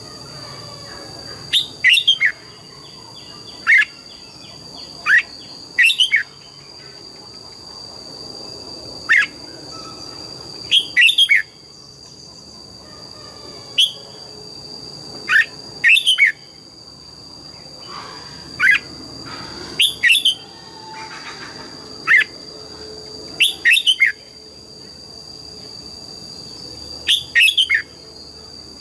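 Red-whiskered bulbul singing: short, loud, clear phrases of one to three quick sweeping notes, repeated every second or two. A steady high-pitched tone runs underneath.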